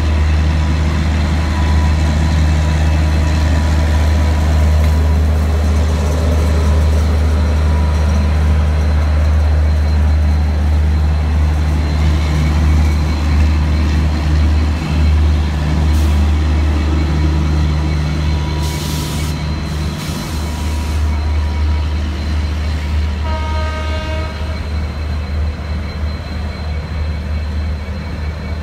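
Steady low rumble of a stationary locomotive idling. In the second half come two short hisses of air, then a brief horn toot.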